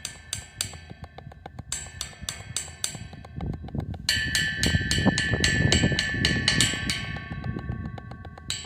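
Drum kit played in a steady quick rhythm, about four or five hits a second, on cymbals and drums, with the cymbals ringing. It grows louder, with heavier low drum hits, from about the middle of the stretch, then eases off near the end.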